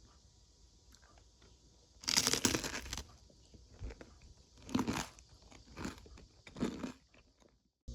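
Crisp food being bitten and crunched in four short bursts, the first the longest, over a steady faint high hiss.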